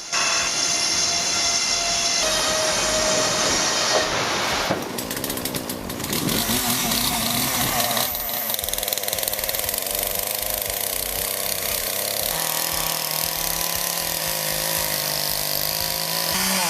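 Power saws cutting wood, a loud continuous mechanical run. Its character changes abruptly every few seconds, and a steady low hum enters in the last few seconds.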